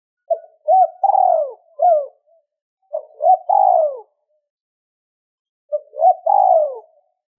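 Spotted dove cooing in the 'two-ending' (2 hậu) style prized for luring wild doves. It gives three phrases with pauses between, each a few short coos followed by a longer note that falls in pitch.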